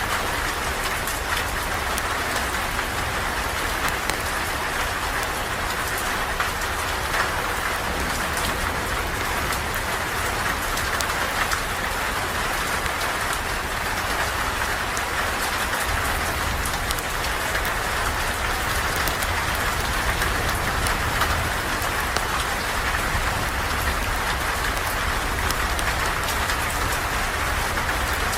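Steady rain falling, an even hiss without let-up, with scattered faint clicks of drops.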